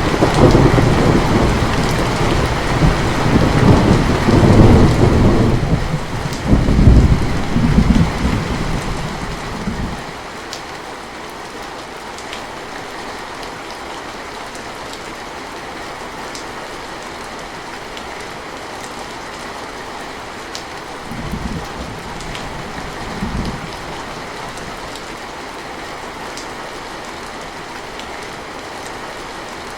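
Steady rain falling, with a long roll of thunder that rumbles over the first ten seconds or so and swells twice before fading. Two brief, fainter rumbles follow about two-thirds of the way through.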